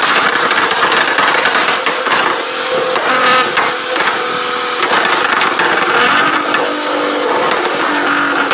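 Nissan GT-R R35's twin-turbo V6 exhaust crackling and popping with rapid, continuous bangs over the engine note, the kind of sound that comes with exhaust flames.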